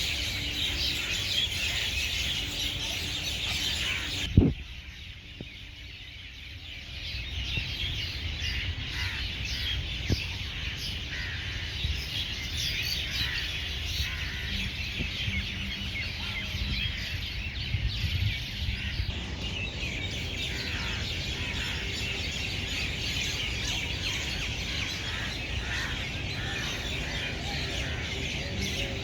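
A dense chorus of many small birds chirping and tweeting continuously. A sharp knock comes about four seconds in, after which the chorus briefly falls away and then returns.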